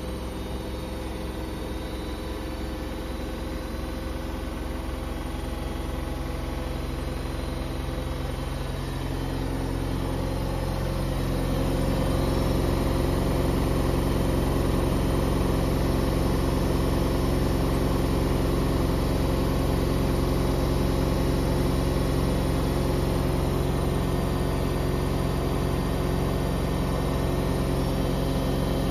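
Washing machine drum speeding up: a steady motor hum that rises in pitch and grows louder over roughly the first ten seconds, then holds at a steady high speed, as when it runs up into a spin.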